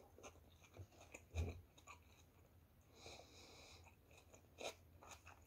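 Faint chewing of a mouthful of batter-fried food: a few soft mouth clicks and smacks, the strongest about one and a half seconds in.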